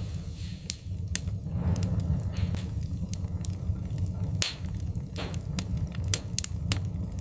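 Wood fire crackling: sharp pops every second or so over a steady low rumble of the flames, with a couple of brief hissing smears.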